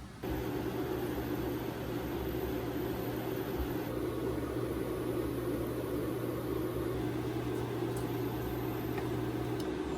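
An electric appliance switched on, running with a steady hum and an even fan-like whir that starts abruptly just after the beginning.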